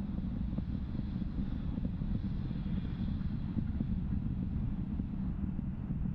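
Steady low rumble of the Falcon 9 first stage's nine Merlin engines firing during ascent, with occasional faint crackles.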